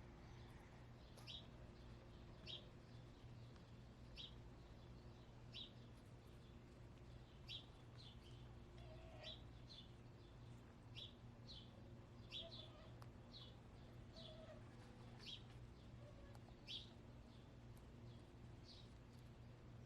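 Faint repeated chirping of a small wild bird: short, falling high notes about once a second, over a steady low hum.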